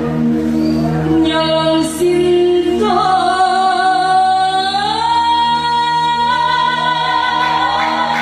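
A woman singing with music backing, running quick ornaments on the first phrase and then holding one long high note that slides up partway through and stays there.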